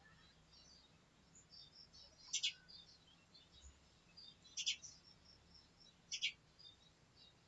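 Faint birds chirping in the background: a few short high chirps a second or two apart, with scattered softer twitters between them, over a low steady room hum.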